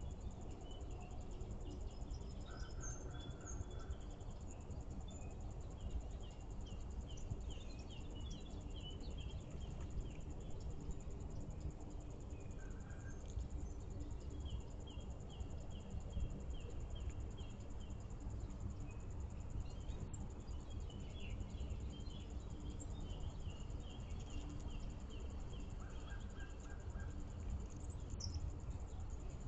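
Backyard songbirds calling, with several runs of quick, evenly repeated high notes, each run lasting a few seconds, and a few lower short notes in between. A steady low rumble runs underneath.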